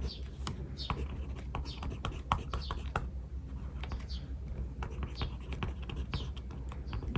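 Pen writing on paper: scratchy strokes and small taps. Behind it, a bird repeats a short falling call about once a second.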